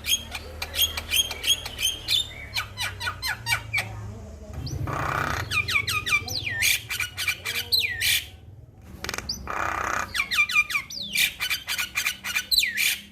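Male Javan myna singing: a fast run of sharp clicks and whistled, falling notes, broken by a harsh rasping stretch about five seconds in and again near ten seconds.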